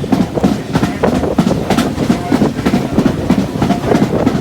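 Railway carriage running along the track: a steady rumble with irregular clattering knocks from the wheels and running gear.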